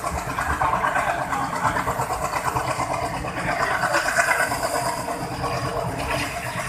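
Diesel locomotive engine running steadily, a dense continuous rumble.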